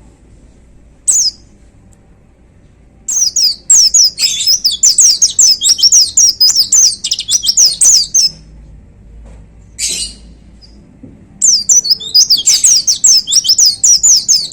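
White-eye (pleci) singing: two long bursts of rapid, high, down-slurred chirping notes, about four a second, with a single short call before each burst.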